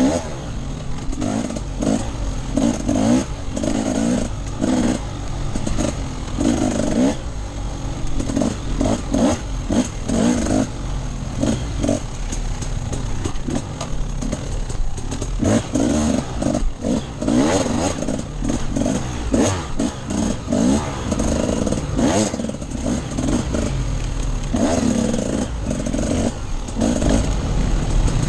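Off-road enduro motorcycle engine revving up and falling back over and over, in short bursts of throttle as it is ridden over rough ground.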